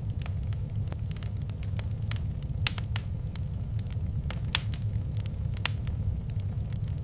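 Wood fire in a fireplace crackling, with scattered sharp pops over a steady low rumble; the loudest pops come about two and a half, four and a half and five and a half seconds in.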